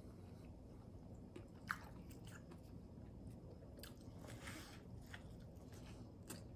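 Faint, close-miked eating: a person chewing a spicy chicken sandwich with bacon, with scattered wet mouth clicks, the sharpest a little under two seconds in. About four seconds in he takes another bite into the sandwich and chews it.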